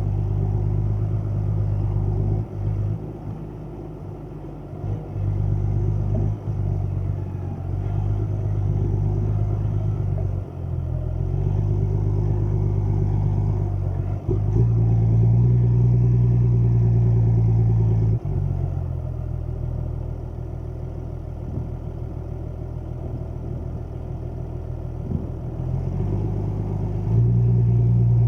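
Deutz-Fahr 6160 TTV tractor's diesel engine running, a steady drone that steps up and down in speed and loudness several times. It is loudest around the middle and again near the end.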